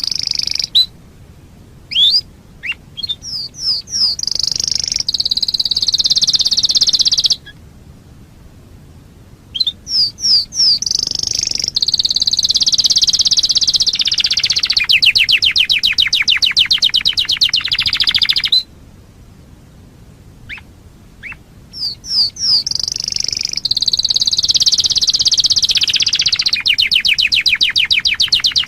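Domestic canary singing: three long song bouts with short pauses between them, each opening with a run of quick rising chirps and running into long, very fast trills.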